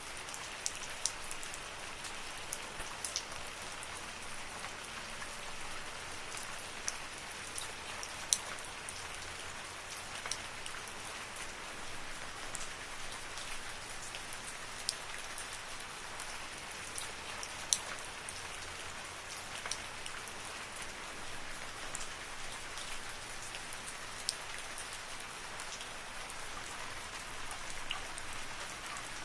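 Steady rain falling in a forest, an even hiss with scattered louder drips and drop ticks, two of them sharper near 8 and 18 seconds in.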